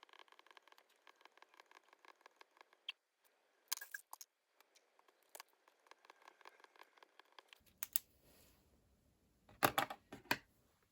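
Quiet handling of paper and stationery at a desk: light scratching and fine ticking, then a few sharper taps and clicks near the end.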